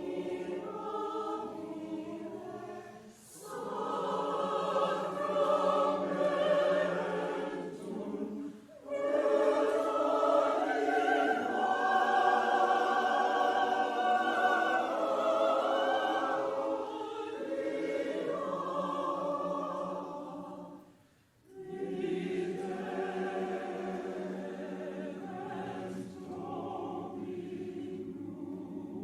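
Chancel choir singing a choral piece in sustained phrases, with brief breaks between phrases about 3, 8 and 21 seconds in.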